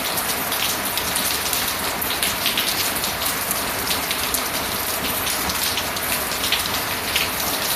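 Steady rain falling: a constant hiss with the quick patter of individual drops.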